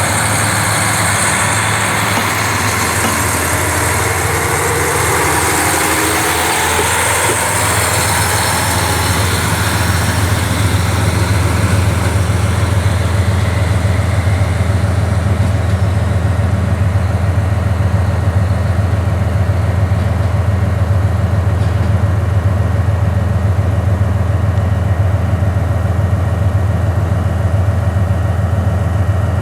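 KiHa 40 diesel railcar's engine idling steadily with a deep, even drone. A hiss with some shifting higher tones fades away over the first several seconds, and the engine grows slightly louder about ten seconds in.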